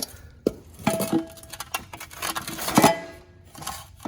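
Metal clanking and ringing from the old, holed exhaust muffler being handled and knocked about: a few sharp knocks, several of them leaving a short ringing tone.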